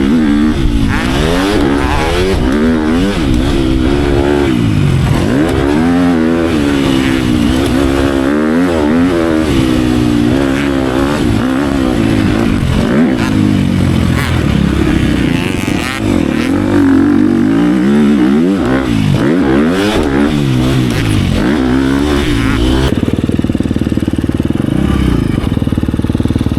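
Motocross dirt bike engine revving hard and rolling off again and again as it is ridden around a track, its pitch climbing and dropping every second or two; it holds steadier near the end.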